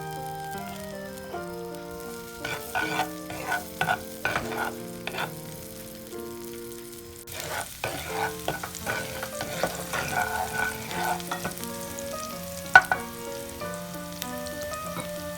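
Food frying in a pan while being stirred with a utensil, in two bouts of scraping and clatter, with a single sharp knock near the end as the loudest sound. Soft background music with stepped notes runs underneath.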